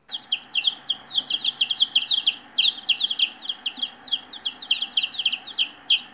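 Songbird chirping: a fast, unbroken run of short, high chirps, each falling in pitch, several a second, over a faint hiss.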